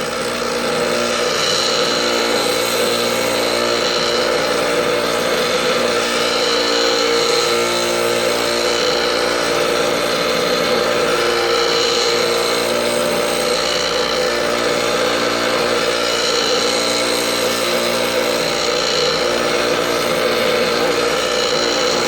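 Bench grinder running while a lathe gouge, held in a Wolverine jig, is rolled against the grinding wheel. It makes a steady motor hum under a hissing grind of steel on the wheel. The grind swells a little about every two and a half seconds as the tool is rotated across the bevel to raise a burr.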